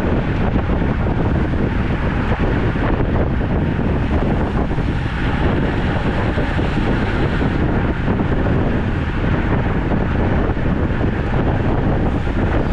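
Steady wind buffeting the microphone of a camera on a moving road bicycle, a loud, even rush with a heavy low rumble.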